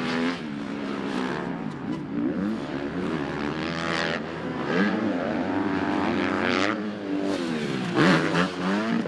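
Dirt bike engine revving hard under racing throttle, its pitch climbing and dropping again and again.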